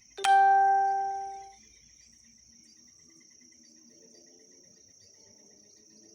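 Crickets keep up a steady high chirring throughout. Just after the start comes one sudden loud pitched ding that fades away over about a second and a half.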